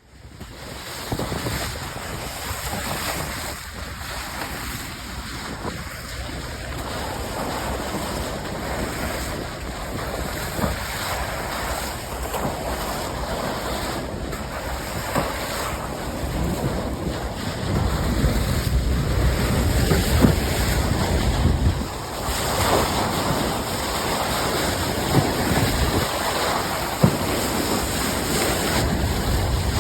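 Sea water rushing and splashing past the bow of a moving ship, with wind buffeting the microphone; the low rumble grows stronger in the second half.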